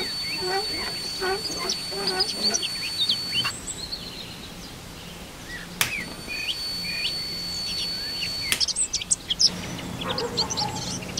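High-voltage generator module powering a homemade ion thruster, giving a thin, steady high-pitched whine that cuts out about three and a half seconds in, comes back after a click a few seconds later, and cuts out again near the end as it is switched on and off. Birds chirp throughout.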